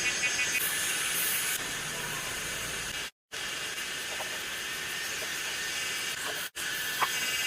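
Steady hissing noise, broken off abruptly twice by edit cuts.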